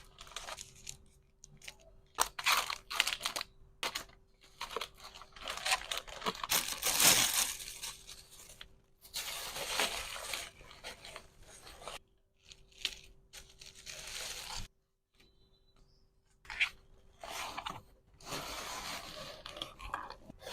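Plastic packaging crinkling and rustling in irregular bursts of handling, with short pauses between.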